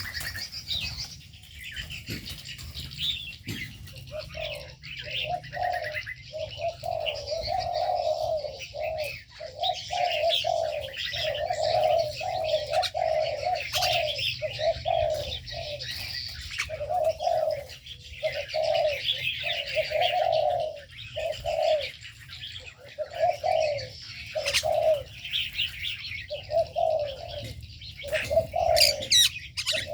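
Doves cooing in a long run of repeated low notes from about four seconds in, over the constant high twittering and chirping of many small birds in an aviary.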